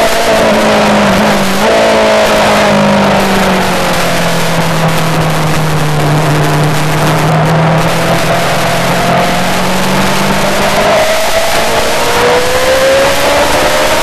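Yamaha R6 inline-four engine heard under heavy wind rush. The revs fall, with a jump about two seconds in as it downshifts, stay low for several seconds, then climb steadily from about ten seconds in as the bike accelerates.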